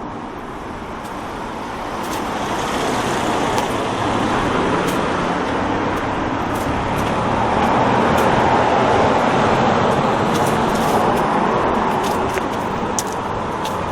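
Road traffic on a street: a motor vehicle passing close by, its tyre and engine noise swelling to a peak a little past halfway and then fading.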